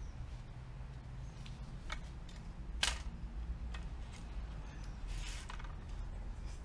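Hand pruning tool cutting tree branches: a handful of sharp snips and clicks, the loudest about three seconds in, with a longer cut near the end.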